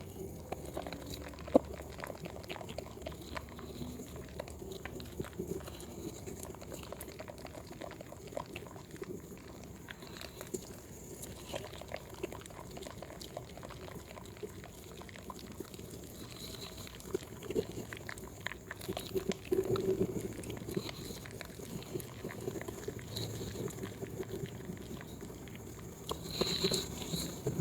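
Wet Proguard soap being worked by hand, squishing and squelching with many small wet clicks, louder about twenty seconds in and again near the end.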